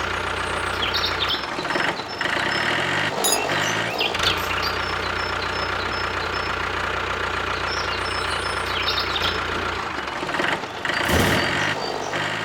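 Mini diesel engine running steadily. The sound breaks off briefly twice, about two seconds in and again near the end.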